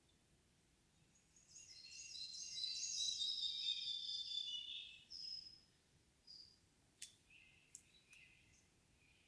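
A songbird sings one rich, fast phrase of several whistled notes lasting about three and a half seconds, followed by a few short separate notes and sharp ticks.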